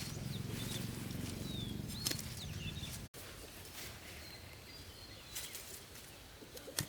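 Small birds chirping faintly in rural surroundings. For about the first three seconds a low, rough rumbling noise runs under them and then stops abruptly. A single sharp knock comes near the end.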